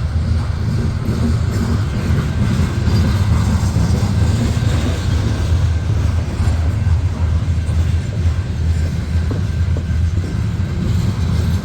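Loaded coal train's hopper cars rolling past with a steady low rumble of wheels on rail.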